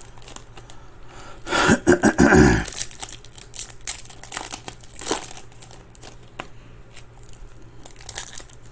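Foil trading-card pack wrappers crinkling and tearing, with light clicks of cards being handled; the loudest rustle comes about two seconds in, and a shorter one near the middle.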